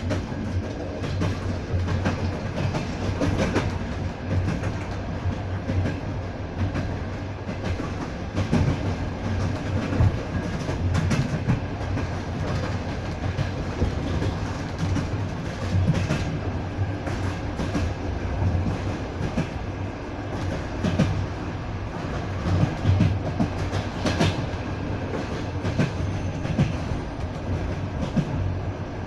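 Passenger train carriage running along the track, heard from inside: a steady low rumble of the wheels, with frequent short clacks as the wheels pass over rail joints.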